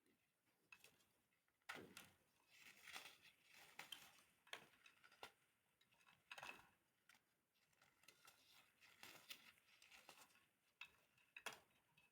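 Compressed baking soda crunching and crumbling as it is crushed: faint, irregular crisp crackles and snaps, with louder cracks about two seconds in, midway through and near the end.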